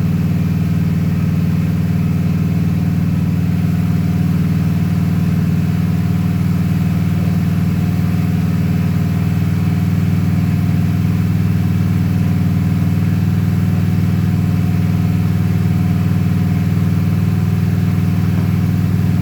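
Honda Shadow 750's V-twin engine idling steadily.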